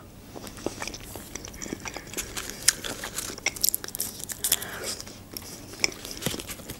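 Close-up eating sounds: chewing and biting on a mouthful of mushroom-and-chicken julienne, with many short wet clicks and smacks of the mouth.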